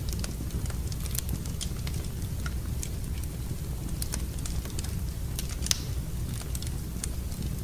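Wood fire in a fireplace crackling: irregular sharp snaps and pops over a steady low rumble, with one louder pop a little past the middle.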